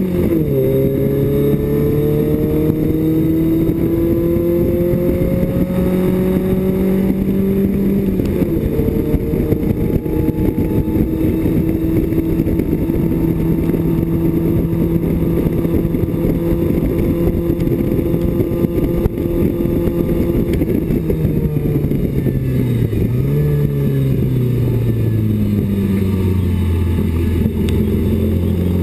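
Cockpit sound of a BMW 2002 race car's four-cylinder engine under hard throttle. The revs drop sharply on an upshift just after the start and again about eight seconds in, then hold high. After about twenty seconds the revs fall away, with a quick blip on a downshift as the car slows.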